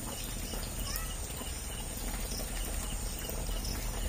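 Steady rain falling, with a faint high chirp repeating about twice a second and a short rising chirp about a second in.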